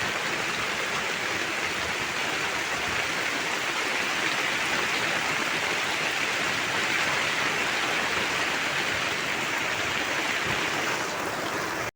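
Heavy rain falling, a steady even hiss with no break.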